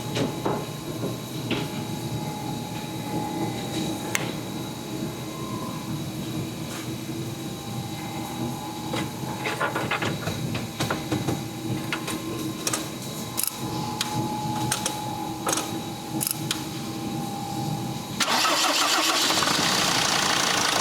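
A 2001 Mercedes Sprinter's five-cylinder diesel engine starting and then running, with scattered clicks. About 18 seconds in, the sound suddenly gets louder and hissier.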